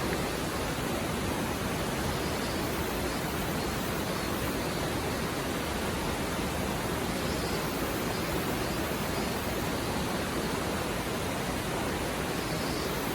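A mountain river stream flowing over rocks: a steady, even rush of water.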